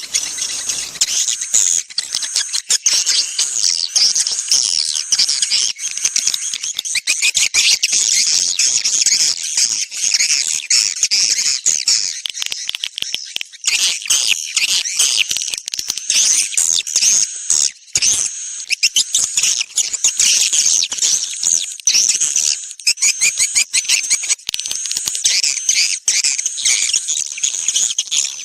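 Swiftlet lure-call recording: a dense, unbroken chorus of high, rapid swiftlet chirps and twitters. It is the kind of call track played to draw swiftlets into a nesting house.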